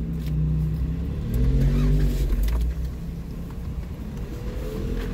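Jeep Wrangler engine running at low speed, heard from inside the cab, revving up briefly about a second and a half in and easing off again. A few short knocks and clicks sound near the middle.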